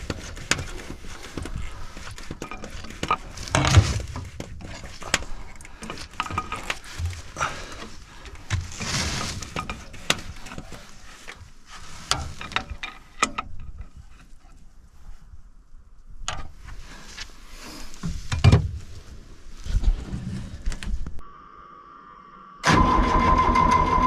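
Metal tools and fittings clinking, clicking and knocking while a fitting on a diesel excavator's fuel line is tightened. About a second before the end, after a short lull, a loud steady machine sound with a pitched whine starts abruptly.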